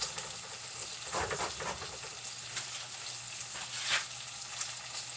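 Corned beef frying in a pan on the stove: a steady sizzle with scattered crackles and pops as it crisps.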